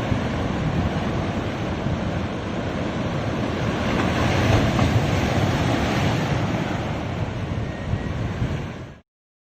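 Sea surf washing onto a beach, a steady rush of waves that swells about halfway through, with wind buffeting the microphone. The sound cuts out abruptly near the end.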